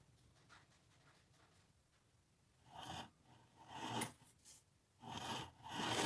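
Four short scraping strokes in the second half, each about half a second long.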